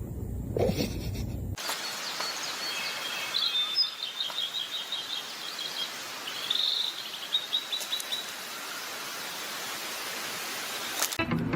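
Small birds chirping in quick runs of short notes over a steady outdoor hiss, after a brief low rumble at the start.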